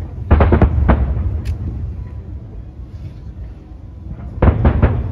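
Aerial fireworks shells bursting in volleys: a quick cluster of several bangs about a third of a second in that rolls into a low rumble, then another rapid cluster of bangs near the end.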